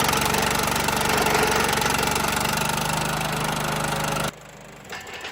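Engine of a wood-processing machine running steadily at a constant speed. It cuts off abruptly about four seconds in, leaving only faint low sounds.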